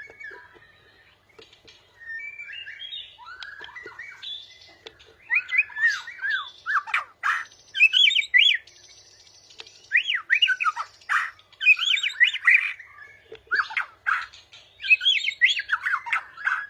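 Songbirds singing in bursts of quick, sweeping whistled phrases with short pauses between them, from a mastering recording that mixes the songs of a sooty-headed bulbul, a canary and a white-rumped shama.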